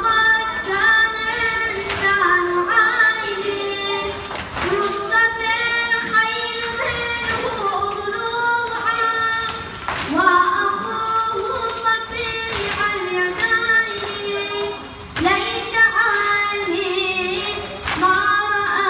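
A solo reciter chanting a latmiyya, a Shia lamentation, in a high voice over a steady held note, with a sharp beat falling roughly every two seconds.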